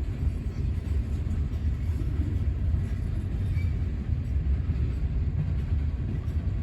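Freight train cars rolling slowly past, a steady low rumble of wheels on the rails.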